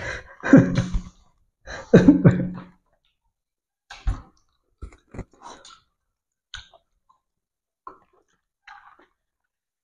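Two short bursts of a man's voice in the first three seconds, then sparse chewing with small clicks and smacks of people eating fried snacks.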